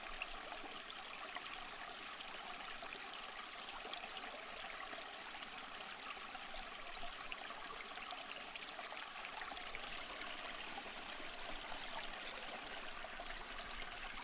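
A stream of water flowing and trickling steadily.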